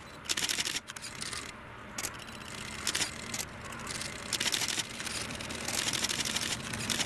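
Railway train running on the rails, heard as a series of short, irregular clattering bursts about every half second to a second.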